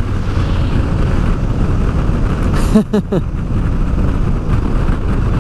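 Honda Deauville V-twin motorcycle riding at speed, engine running under a heavy rush of wind noise. About three seconds in there is a brief falling tone with a short dip in loudness.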